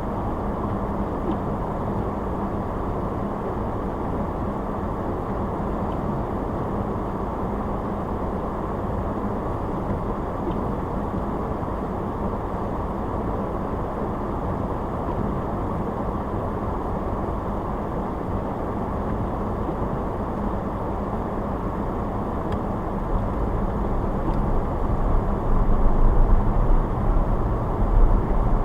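Car driving, with steady road and engine noise. A deeper rumble swells louder over the last five seconds or so.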